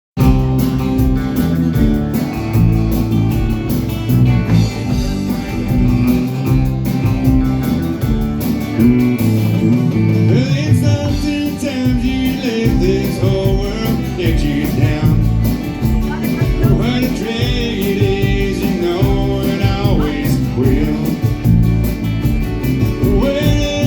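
Live country band playing the instrumental intro of a song: guitars and bass over a steady beat, with a lead line carrying the melody from about ten seconds in.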